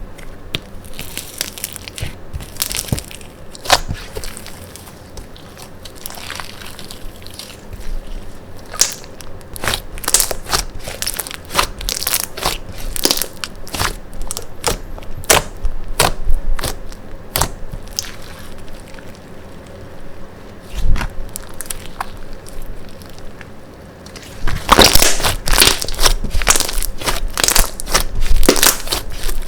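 Slime being squished and pressed by hand, making a run of sharp crackles and pops, densest near the end.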